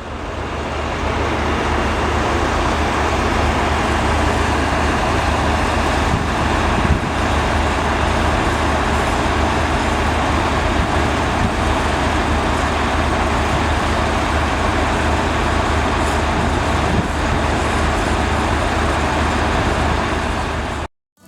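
A motor-vehicle engine running steadily with a low, rapidly pulsing rumble, fading in at the start and cutting off suddenly near the end.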